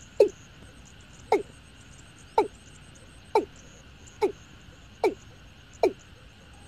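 Watercock (Gallicrex cinerea) calling: a series of short, low, downward-sliding notes, seven of them about a second apart. A steady high-pitched drone runs faintly underneath.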